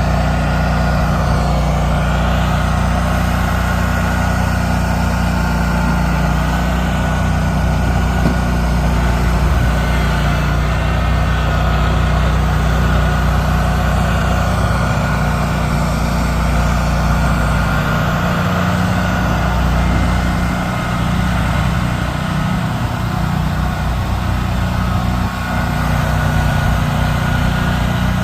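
Plow vehicle's engine running steadily, with a low hum that falters slightly about two-thirds of the way through.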